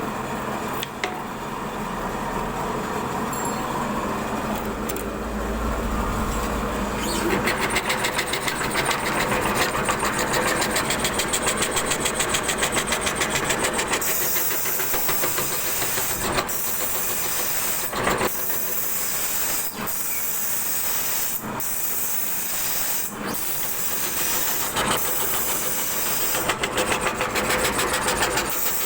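CNC wood carving router running and cutting wood, a steady hissing machine noise with a steady tone under it. The sound changes about a quarter and again about halfway through, and from then on it dips briefly every second or two.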